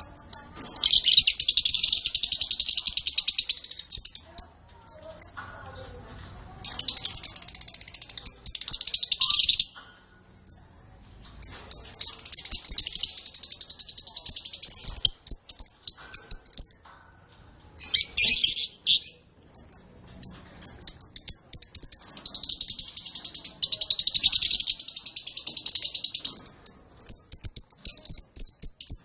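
Canary singing in long, rapid trilling phrases of a few seconds each, separated by short pauses filled with quick chirps.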